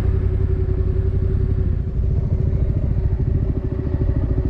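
Motorcycle engine running steadily, with a fast, even pulse.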